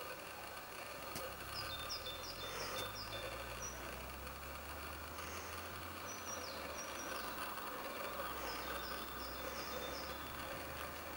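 A songbird singing three short phrases of quick, high, repeated chirps, over a steady low rumble.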